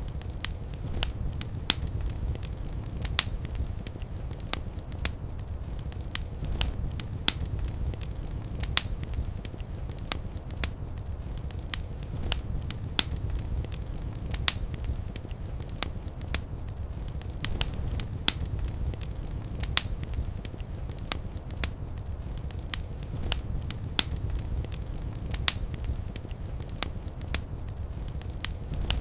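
Fireplace fire crackling: frequent sharp pops at irregular intervals over a steady low rumble of the flames.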